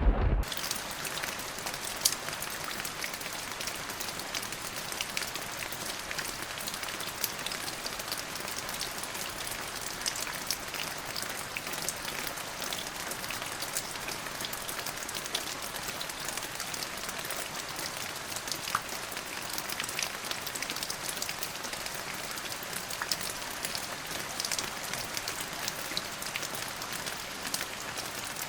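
Steady rain falling, an even hiss thick with the ticks of individual drops hitting a surface.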